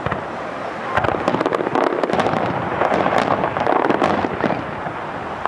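Aerial fireworks bursting: a rapid run of crackling pops and bangs, densest from about a second in until near the end.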